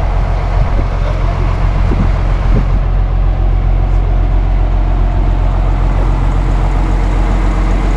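Truck engine idling steadily, a constant low drone.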